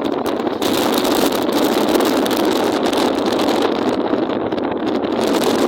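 Steady rush of wind and heavy rain noise on the microphone of a moving vehicle.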